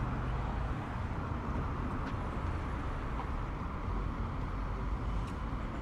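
Steady traffic noise of cars on a city street.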